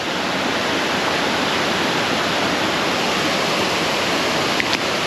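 Creek waterfall rushing steadily, running high after several inches of rain.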